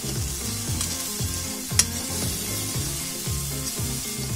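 Onions, green chillies, curry leaves and turmeric sizzling in hot oil in a steel kadhai as they are stirred with a steel spoon, with one sharp clink of spoon on pan a little under two seconds in. Background music with a steady beat plays underneath.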